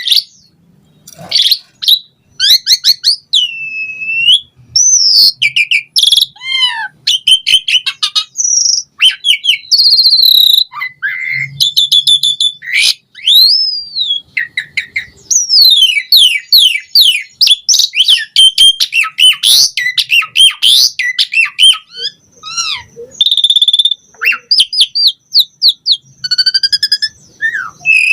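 Javan pied starling (jalak suren) singing a long, varied song of loud whistles, chirps, quick trills and rising and falling glides, broken by short pauses.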